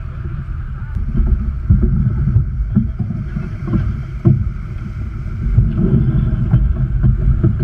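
A sailboat under way: wind buffeting the microphone and water rushing along the hull, heard as a heavy low rumble that surges irregularly.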